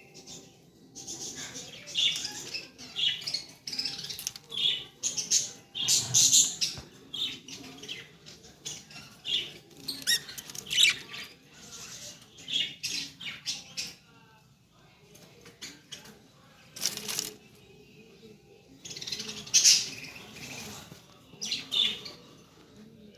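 A cage of blue-series budgerigars chirping and chattering in short irregular bursts, with wing fluttering and scrabbling among the calls. The calls briefly go quieter about two-thirds of the way through.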